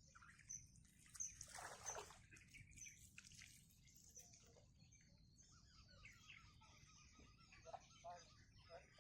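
Faint outdoor ambience: small birds chirping, with a faint trickle of water and a low steady rumble, and a brief louder rustle about two seconds in.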